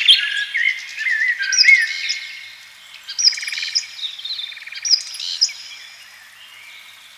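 Several songbirds singing and calling over one another: short whistled slurs and fast buzzy trills, busiest in the first few seconds and thinning out near the end.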